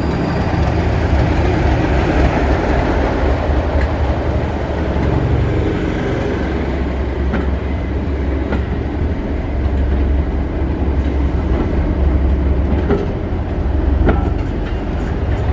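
Diesel-hauled train of Mk1 coaches running along the line: a steady low drone from the Class 31 locomotive under the rumble of the wheels on the track. A few sharp clicks of wheels over rail joints come near the end.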